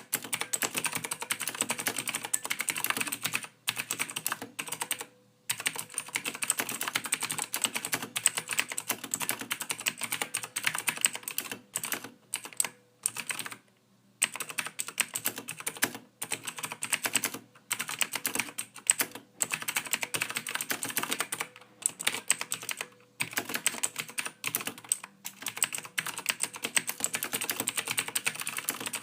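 Computer keyboard typing: rapid key clicks in bursts of a few seconds, broken by short pauses.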